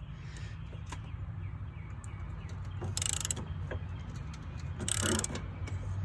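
Ratchet wrench on stacked extensions working a 13 mm bolt loose: scattered short clicks, then two brief louder bursts of ratcheting about three and five seconds in, over a steady low hum.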